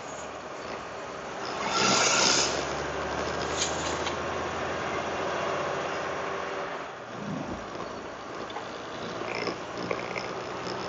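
Highway traffic noise: steady engine hum and tyre noise, with a vehicle passing loudly about two seconds in.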